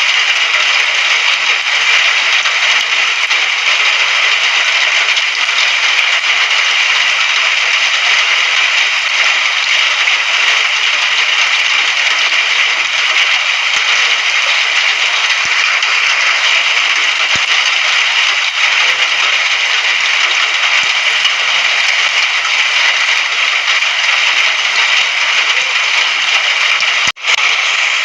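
Steady rain, an even hiss of many falling drops, which cuts out for an instant about a second before the end.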